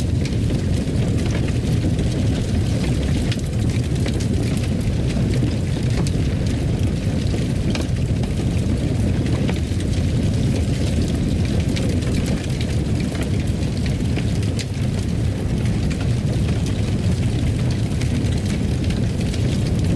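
Wood fire burning in a fireplace: a steady low roar with scattered small crackles and pops.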